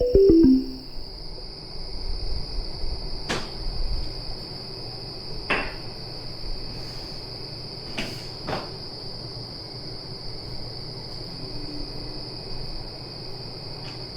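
Steady high-pitched insect trill, with four sharp clicks or taps scattered through it.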